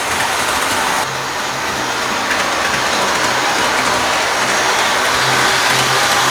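HO-scale model train running on its track: a steady whirring rattle from the locomotive's motor and wheels on the rails. It dips a little about a second in, then slowly grows louder.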